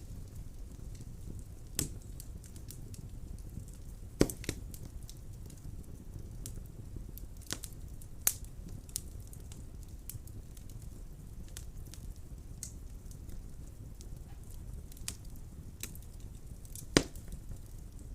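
Wood fire burning in a fireplace: a low steady rumble of flames with irregular crackles and a few sharp pops, the loudest about four seconds in and near the end.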